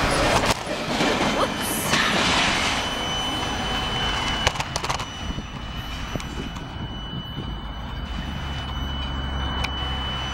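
Double-stack intermodal freight train's well cars rolling past on the rails, loud at first, then fading as the end of the train pulls away. A thin, steady, high-pitched squeal comes in about two seconds in and holds as the train recedes.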